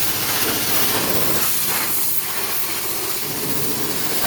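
High-pressure wash wand spraying water in a steady hiss, rinsing a truck.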